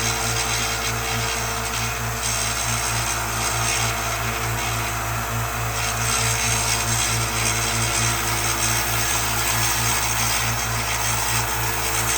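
Power sander or grinder running steadily while work is held against it, with a steady low hum and a regular low pulse about two to three times a second.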